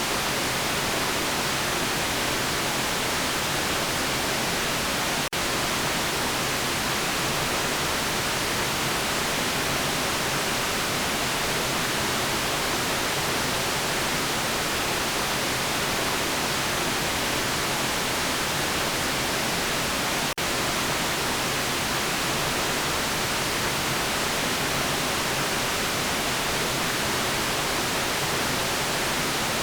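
Steady white noise: an even hiss with no tones, fuller in the treble than the bass, broken only by a brief dip about five seconds in and another about twenty seconds in.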